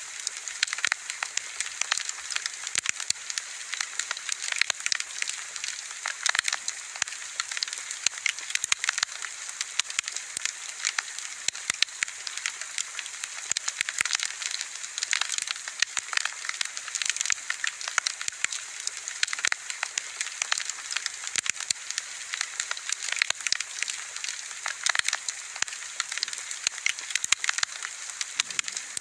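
Wood bonfire crackling, with dense irregular snaps and pops over a soft steady hiss.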